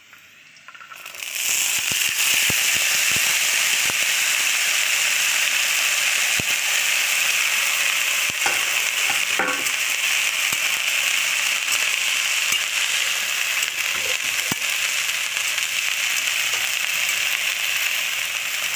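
Chopped dhekia (fiddlehead fern) greens dropped into hot oil in an iron wok about a second in, setting off a loud, steady sizzle of frying. A metal spatula stirs the greens, with scattered clicks and scrapes against the pan.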